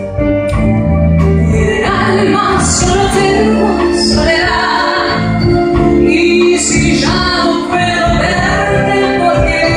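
Live band music with a sung melody.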